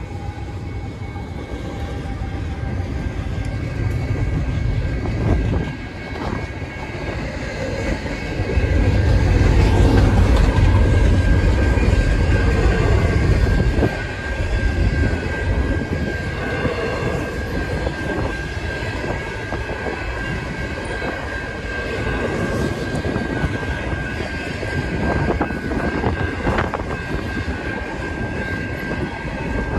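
Norfolk Southern freight train rolling past. Its locomotives' diesel engines are loudest for about five seconds, starting some nine seconds in. The cars follow with a steady rumble, occasional clanks and a thin steady high tone.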